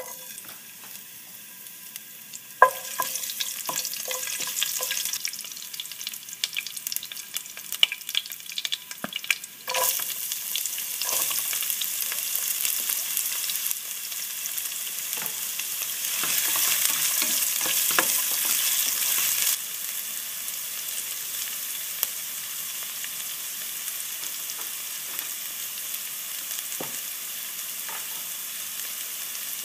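Chopped onions and garlic sizzling in hot oil in a frying pan as they are sautéed, with sharp clicks and taps through the first third. The sizzle gets louder about a third of the way in and eases to a steadier level about two-thirds in.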